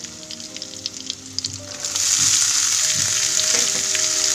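Metal spatula scraping and stirring onion, garlic and green chilli frying in oil in a kadhai. About two seconds in, the sizzle jumps suddenly much louder and stays loud as the chopped green beans go into the hot oil.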